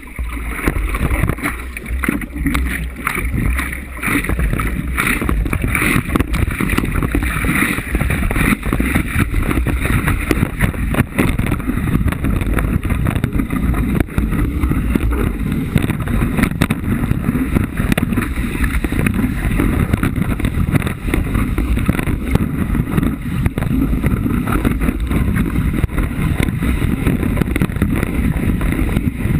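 Steady rush of water and wind buffeting a GoPro camera in its waterproof housing while riding a wave.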